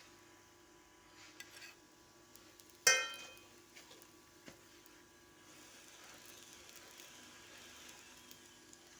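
Faint frying sizzle of chapati cooking, with a single sharp, ringing metal clank about three seconds in.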